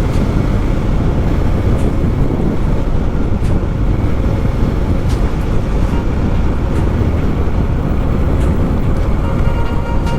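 Motorcycle on the move: a steady rush of wind and road noise on the bike's camera microphone, with the engine running underneath. A few faint clicks, and near the end a faint whine.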